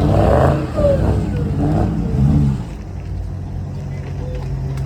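A car engine running steadily at a constant pitch, with voices over it during the first half that drop away about two and a half seconds in.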